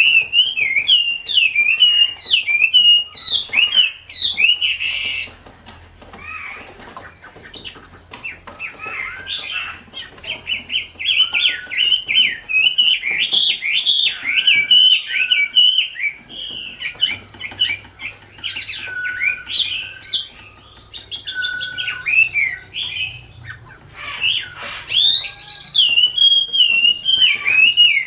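A wambi songbird singing vigorously: long runs of quick, sharp chirped notes sweeping up and down, broken by a couple of short pauses.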